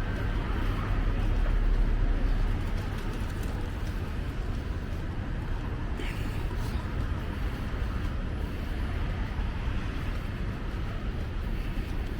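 City street traffic: cars passing with a steady low engine and tyre rumble, loudest about two seconds in.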